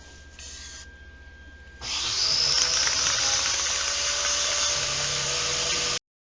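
An electric power tool starts up about two seconds in, its motor whine rising as it spins up, with loud grinding hiss over it. It cuts off abruptly near the end.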